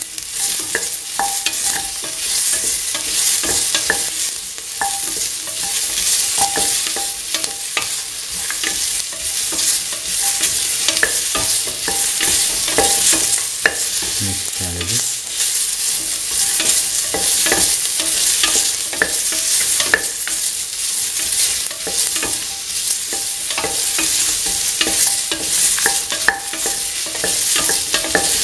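Chopped bell pepper, onion, garlic and tomato sizzling in hot oil in a metal pan, with a spatula stirring them and clicking and scraping against the pan many times over the steady sizzle.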